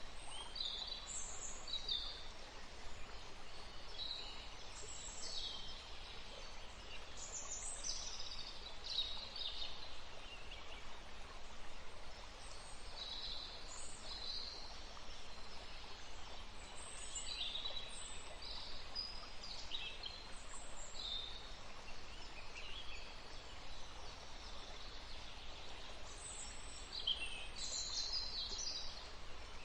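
Birds chirping: many short, high calls come in scattered clusters over a steady background hiss.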